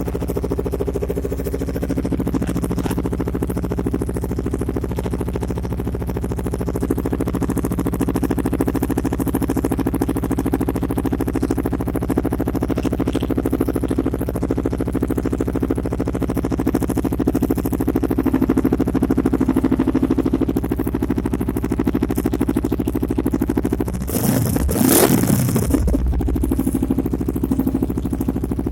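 Motorcycle engine idling steadily through an aftermarket Akralingga slip-on exhaust, with one short rev about 24 seconds in.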